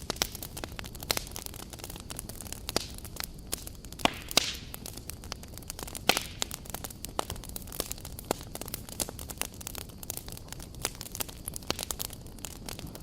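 Campfire crackling: irregular sharp pops and snaps over a steady low hiss, with a few louder snaps about four and six seconds in.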